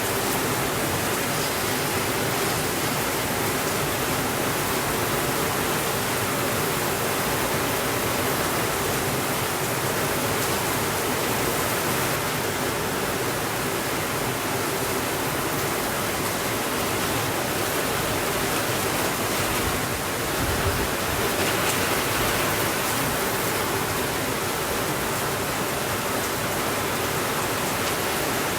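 Heavy rain falling steadily, an even continuous hiss of rainfall on a window.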